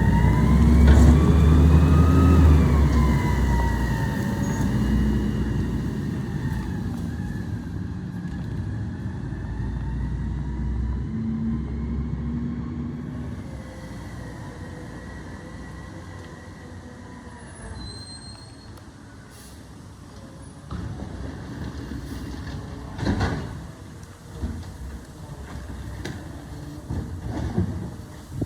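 Garbage truck engine revving, with a whine that rises and then falls in pitch, and slowly fading away. A few sharp metallic clanks come near the end.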